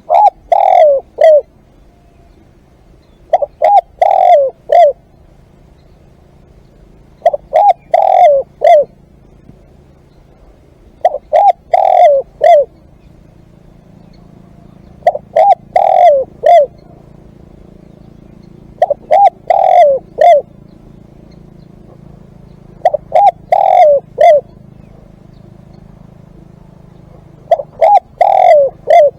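Spotted dove cooing: a phrase of four or five notes, the last one set a little apart, repeated about every four seconds, eight times.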